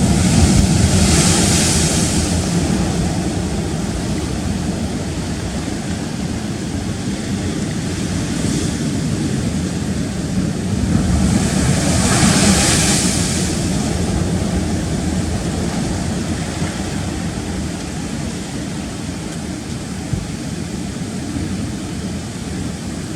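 Rough sea surging and breaking on rocks, with a constant low rumble. Two louder waves crash with a hissing rush, about a second in and again about twelve seconds in.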